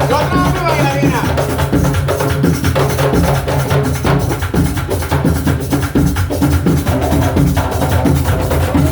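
Drum ensemble playing a fast, steady rhythm, many drums struck together in a continuous pulse.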